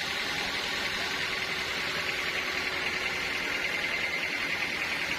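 Sawmill saw running steadily, a constant high hiss with a faint steady hum beneath, no starts or stops.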